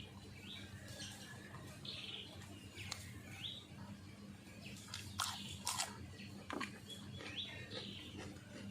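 Someone eating: chewing and a few sharp mouth smacks, the loudest two about five to six seconds in. Small birds chirp repeatedly in the background over a steady low hum.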